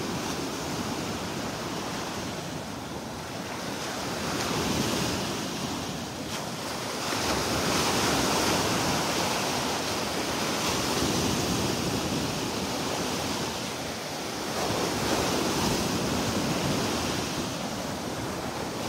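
Rushing wind and surf noise that swells and eases every few seconds, with some wind buffeting the microphone.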